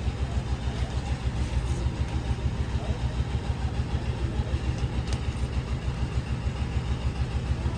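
An engine running steadily at idle, a low throb pulsing about eight times a second.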